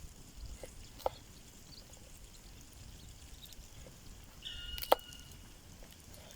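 Log-cabin ('well') campfire burning, with sparse crackles: a small pop about a second in and a loud sharp pop about five seconds in, accompanied by a brief whistle-like tone.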